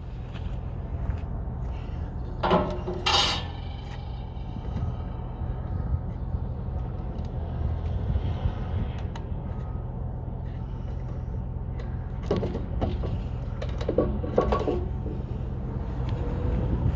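A steady low engine rumble, with a few short louder sounds about two and a half seconds in and again from about twelve to fifteen seconds in.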